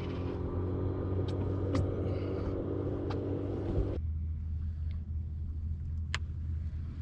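Boat's outboard motor running steadily with a low hum; about four seconds in its higher tones drop away, leaving a lower, quieter hum. A few sharp clicks or knocks sound over it.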